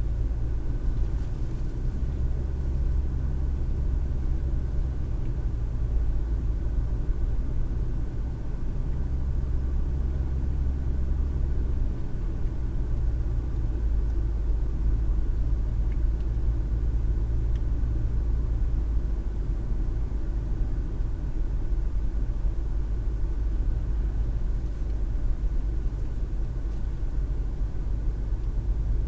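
Steady low road and engine rumble of a car driving, heard inside the cabin through the dash cam.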